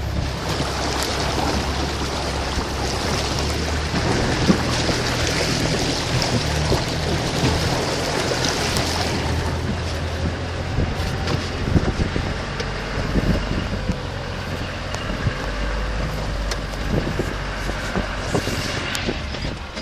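Off-road vehicle's engine running at low revs while it drives through water, with steady rushing and splashing of water and occasional knocks.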